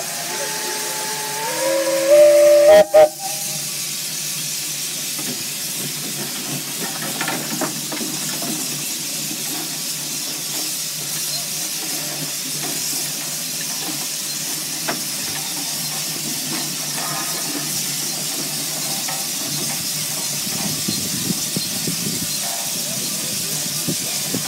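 Steam whistle on a Russell steam traction engine blowing a chord of several tones that rises in pitch and swells to a loud blast, cutting off about three seconds in. Steam then hisses steadily, with a few faint knocks.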